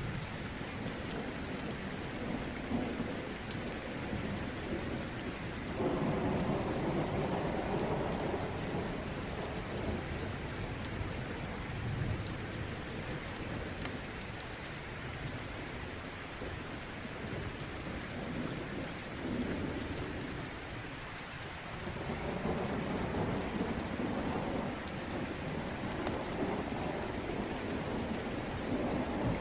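Steady heavy rain falling, with rumbles of thunder. One rumble swells up suddenly about six seconds in, and another builds from about twenty-two seconds on.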